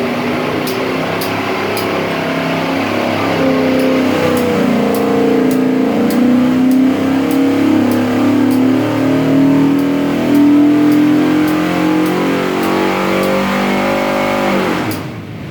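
A 408ci stroker small block Ford V8 with multi-point EFI running under load on an engine dyno. Its revs climb steadily through most of the pull, then drop away sharply near the end as it comes off the pull.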